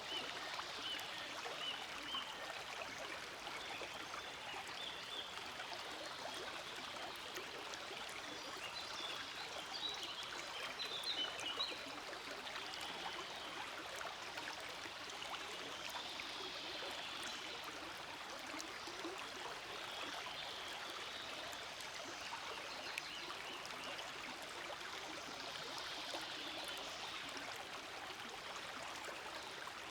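Forest stream flowing steadily: a continuous, even rush of running water, with a few brief brighter splashes a little before the middle.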